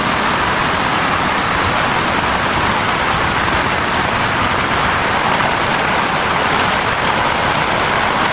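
Heavy rain falling steadily, a loud, even hiss with no break.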